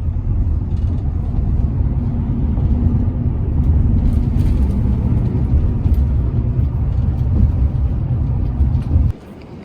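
A vehicle running, a steady low rumble of engine and road noise that cuts off abruptly about nine seconds in.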